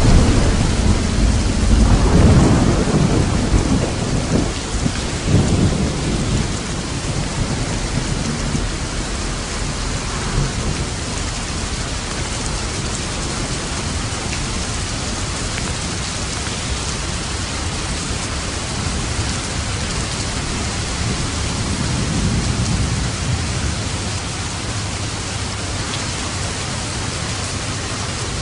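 Steady heavy rain with thunder. A loud rolling rumble fills the first six seconds, and a softer rumble comes around two-thirds of the way through.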